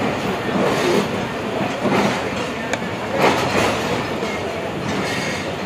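Pakistan Railways passenger train rolling slowly along a station platform: steady running rumble with a few irregular knocks and clacks from the wheels.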